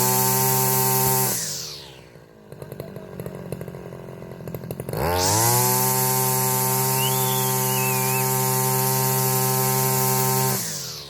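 Petrol brush cutter engine revved twice by its throttle: it is at full revs at the start and drops back to idle about a second and a half in. It is blipped up again about five seconds in, held high for about five seconds, and falls back to idle near the end.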